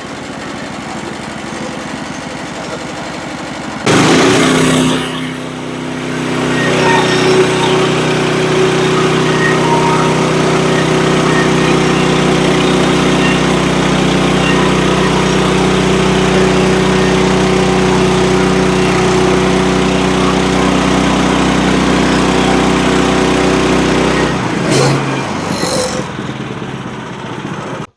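Woodland Mills manual band sawmill's gas engine idling, then throttled up about four seconds in and running steadily under load as the band blade saws through a red cedar log. The engine drops back near the end.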